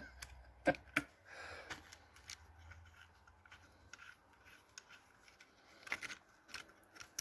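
Hand work on a TBI throttle body at the bench: scattered light clicks and taps of small metal parts being fitted, with a brief scrape about a second and a half in.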